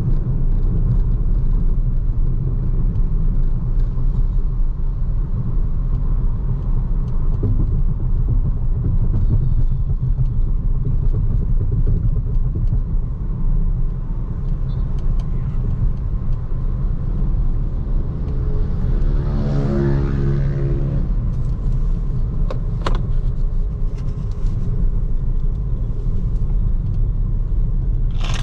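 Steady low rumble of road and tyre noise from a BYD Seagull electric car driving through city traffic, with no engine note of its own. About two-thirds of the way through, a pitched drone swells for about two seconds, and a single sharp click follows shortly after.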